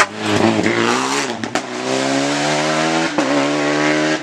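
Rally car engine at high revs, its pitch dipping and recovering about a second in, then holding steady before a brief break near the end, as at a gear change.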